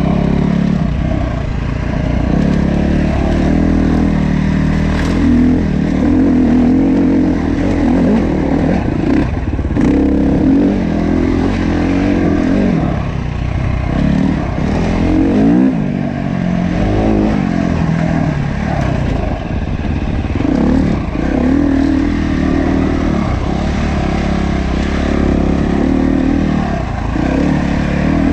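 Dirt bike engine running under way, its pitch rising and falling as the rider works the throttle and shifts, with some clatter from the rough trail.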